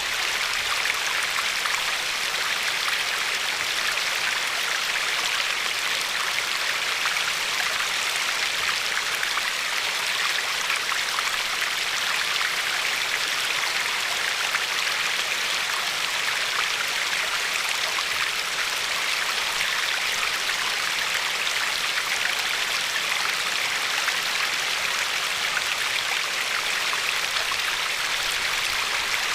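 Glacier-fed river flowing and lapping along a pebbly shore: a steady, even rush of water with no low rumble and no single splash standing out.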